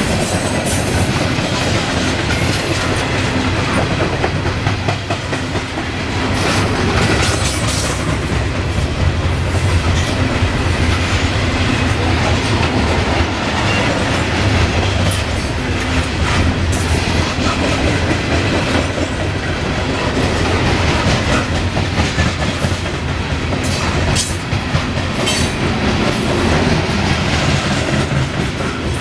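Freight train of coal hopper cars rolling steadily past: a continuous heavy rumble with the clickety-clack of the wheels and scattered metallic clicks and knocks.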